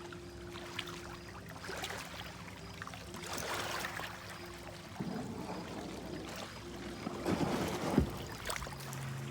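Kayak paddle strokes splashing and dripping water, a swell of water sound every second or two, with one sharp knock about eight seconds in.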